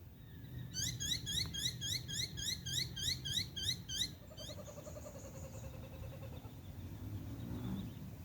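A bird calling: a rapid series of short rising notes, about four a second, lasting about three and a half seconds, over a steady low rumble.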